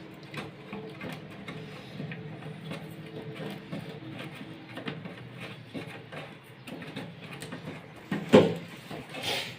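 Toilet flush-tank parts being handled during a float-ball repair: scattered light clicks and rattles, with two louder knocks near the end.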